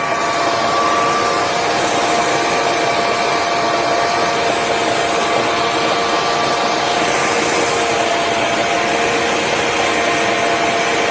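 Generac Guardian home standby generator running steadily: an even rushing whir with a few steady hum tones on top.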